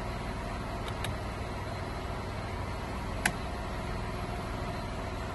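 The 2012 Ford Escape's 3.0 V6 idling steadily, heard as a low rumble. A few faint ticks about a second in and a single sharp click about three seconds in.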